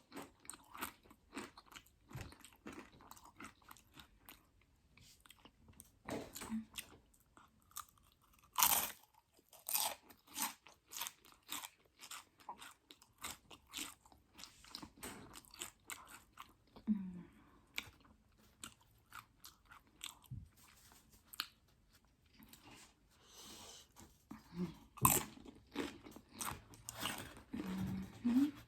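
Close-up eating of Doritos loaded nachos: crisp tortilla chips crunching and cracking under the teeth in irregular bites and chews, with a few louder crunches, one about nine seconds in and one about twenty-five seconds in.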